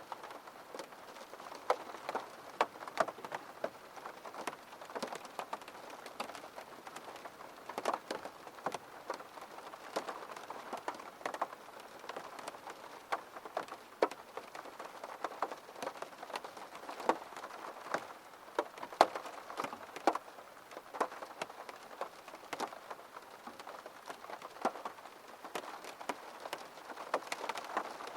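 Raindrops hitting window glass: many irregular sharp taps, several a second, over a faint steady hiss of rain.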